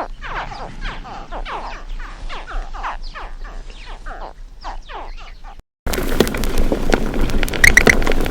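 Animal calls: many short cries in quick succession, each falling sharply in pitch. They stop abruptly after about five and a half seconds, and after a brief gap a different recording with scattered clicks begins.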